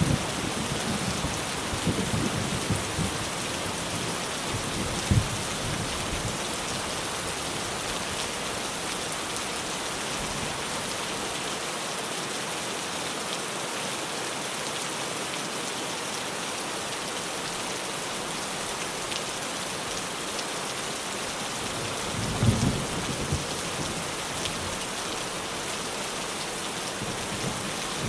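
Rain falling steadily on a tin roof. Thunder rumbles in the first few seconds and again, louder, about three-quarters of the way through.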